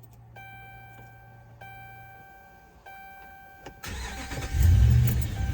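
Inside the cab, a dashboard chime sounds three times, then the 2010 Ram 1500's 5.7-litre Hemi V8 cranks and starts with a short flare in revs before settling to idle. The engine is the one carrying a multiple-cylinder misfire code.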